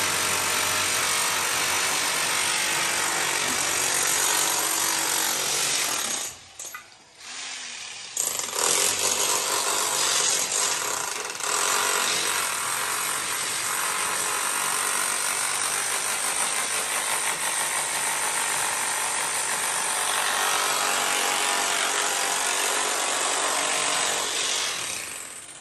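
Power tool running steadily on a building renovation site. It cuts out for about two seconds around six seconds in, then runs again until it fades near the end.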